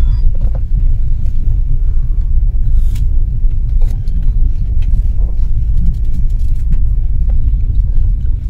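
Passenger train running, heard inside a sleeper coach: a steady low rumble, with a few faint clicks and knocks.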